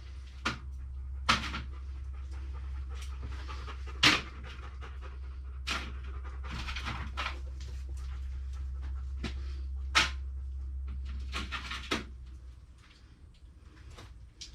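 Scattered sharp clanks and clatters of tools being handled while a socket is hunted out, with a breathy, panting-like sound between them. A steady low hum underneath stops about 12 seconds in.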